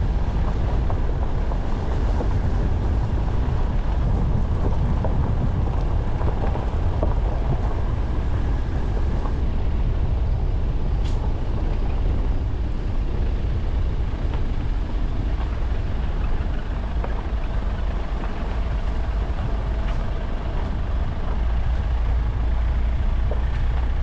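Car driving along, a steady low rumble of engine and tyres.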